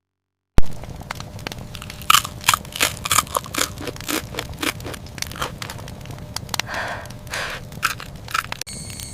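Irregular crunching and crackling, several sharp crunches a second, starting with a loud crunch as the sound cuts in.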